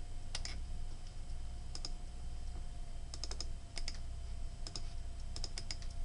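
Scattered clicks of a computer keyboard and mouse, a few keystrokes at a time with short pauses between, as text is copied and pasted. A faint steady electrical hum runs underneath.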